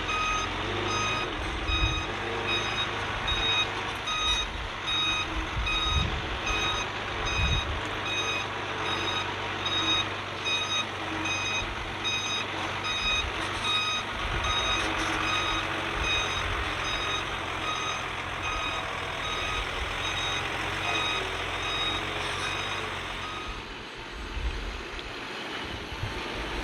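A heavy machine's backup alarm beeping steadily at about two beeps a second while it reverses, over a diesel engine running; the beeping stops near the end.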